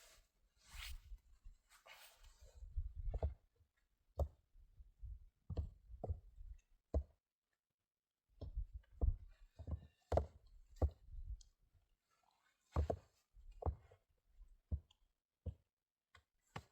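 Irregular knocks and dull thuds, about a dozen spread unevenly, with a few short hissing rustles among them.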